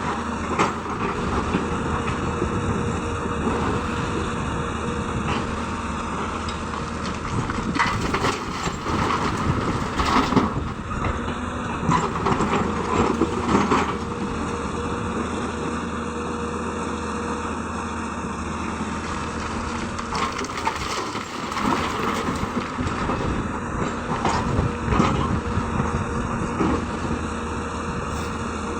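Hyundai excavator's diesel engine running steadily, with bursts of clattering knocks as stone is dropped into the bed of a truck.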